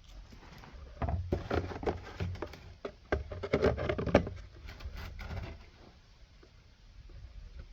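Irregular clatter of hand tools and metal engine parts being handled: a run of clicks and knocks from about a second in, dying away after about five and a half seconds.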